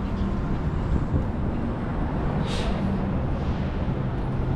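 City street traffic: a steady rumble of vehicle engines with a low engine drone, and a short hiss about halfway through.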